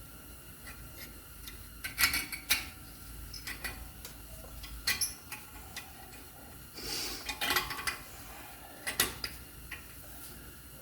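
Scattered sharp metallic clicks and clinks, with a cluster near the middle, as a spring retaining clip is worked into place on a 2009 Mercedes ML350's brake caliper.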